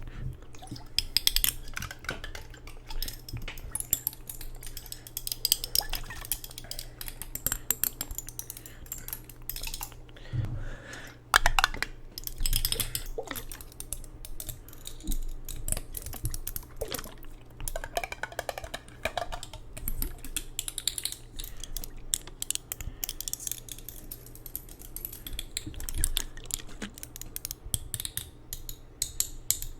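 Close-miked ASMR tapping and handling of hard objects: a dense, irregular run of quick taps, clicks and clinks.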